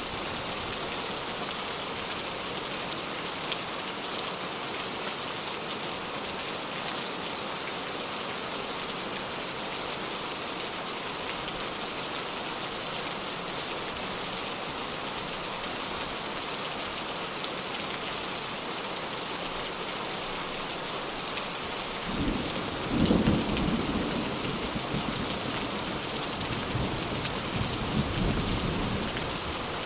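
Steady rain falling, with a low roll of thunder starting about three quarters of the way through, loudest just after it begins and rumbling away over several seconds.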